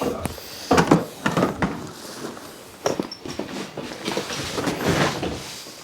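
A handful of irregular knocks and bumps, a few seconds apart, from handling tools or materials.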